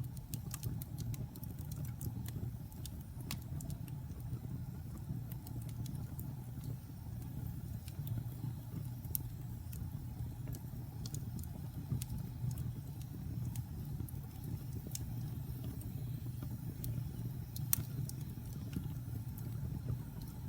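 Wood fire burning in a fireplace: a steady low rumble of flames with irregular sharp crackles and pops of the burning wood, including a louder pop a few seconds before the end.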